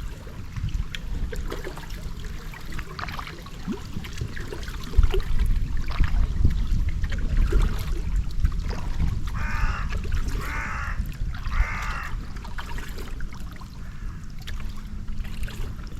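A crow cawing three times, a little past the middle, harsh calls about a second apart. Under them run a steady low rumble and trickling water.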